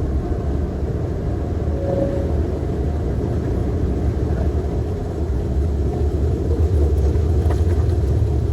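Airliner cockpit during the takeoff climb: the engines at takeoff power and the rushing airflow make a steady, deep rumble, growing slightly louder near the end.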